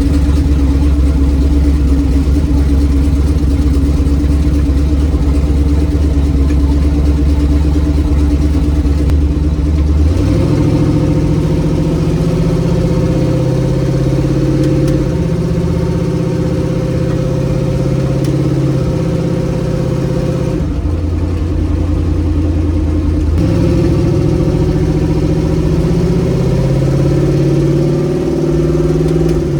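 Chevy S10's swapped LS V8 engine running on a drive. Its low steady drone steps up in pitch about ten seconds in, drops back low for a few seconds about two-thirds of the way through, then rises again.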